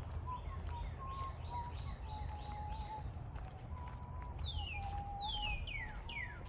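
Birds calling: a run of quick downward-sweeping chirps, about two or three a second and loudest in the second half, with lower short whistled notes among them, over a steady low rumble.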